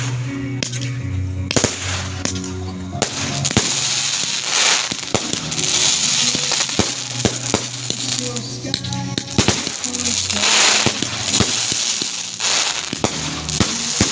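Fireworks going off in quick succession, with many sharp bangs and stretches of crackling, over music.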